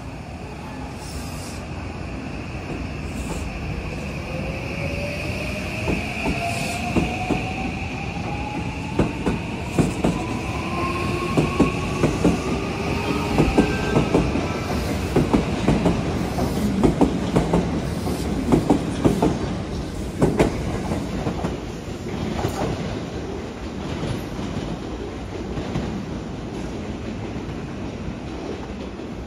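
A JR West 323 series electric train pulling out and picking up speed. Its motors give a whine that climbs steadily in pitch, and a steady high tone runs over the first half. From about six seconds in, the wheels clatter in a dense run of sharp clicks over the rail joints as the cars pass, then fade out after about twenty seconds.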